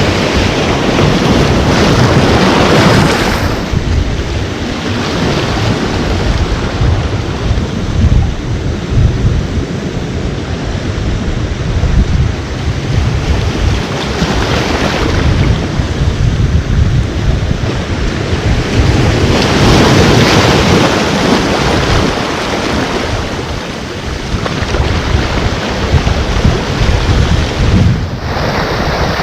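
Ocean surf breaking and washing ashore in a continuous rush, swelling into louder surges near the start and twice past the middle, with wind buffeting the microphone as a low rumble.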